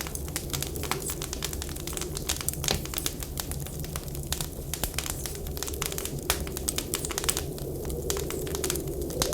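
Wood fire crackling, with many irregular sharp pops over a low steady rumble.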